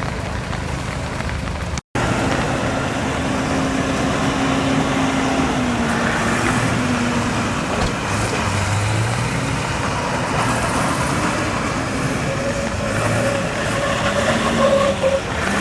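A truck engine running with its pitch wavering up and down under dense noise. The sound drops out for an instant about two seconds in, at a cut.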